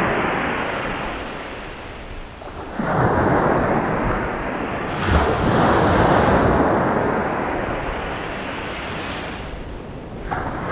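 Sea waves breaking and washing up a beach. Each surge rises and then slowly fades: one begins about three seconds in, a sharper crash follows about two seconds later, and another comes in near the end.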